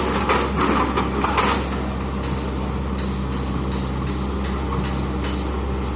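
Excavator's diesel engine running steadily, with a burst of clanking knocks in the first second and a half and occasional sharp ticks after.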